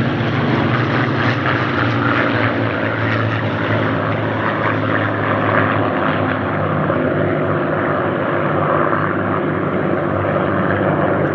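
A formation of Spitfires flying past, their piston engines making a loud, steady propeller drone. Several engine tones overlap and drift slightly in pitch as the aircraft pass.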